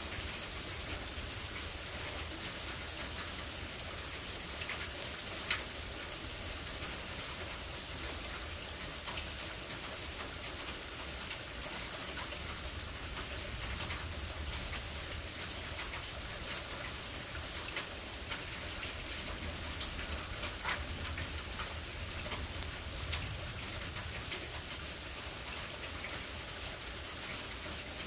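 Steady rain falling during a thunderstorm, an even hiss with a few sharp drop taps, one of them at about five seconds in. A low rumble runs underneath.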